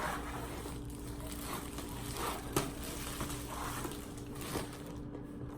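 Plastic wrapping rustling and crinkling as a new humidifier is handled and unwrapped, with a couple of light knocks.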